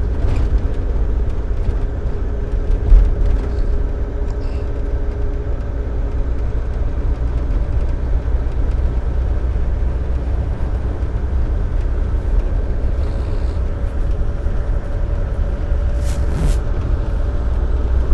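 Empty dump truck cruising at highway speed, heard from inside the cab: a steady low rumble of diesel engine and road noise with a faint engine drone, and a single knock about three seconds in.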